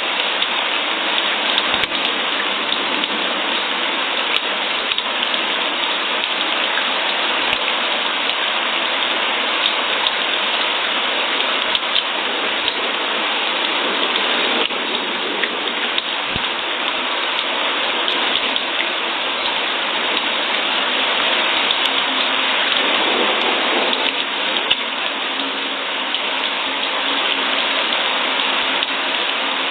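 Steady rain falling, a dense even patter with scattered individual drop ticks.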